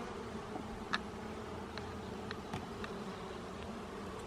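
Honeybee colony buzzing steadily from an open hive, with a few light clicks, the sharpest about a second in.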